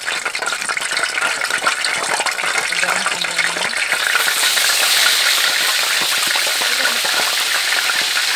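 Hot oil crackling in a wok. About four seconds in, ground chili paste for sambal goes into the oil and it breaks into a loud, steady sizzle while a metal spatula stirs it.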